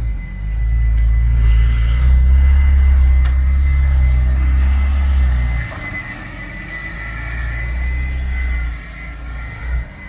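A car engine running with a deep low rumble, which drops much quieter a little past halfway, and a steady high whine through it.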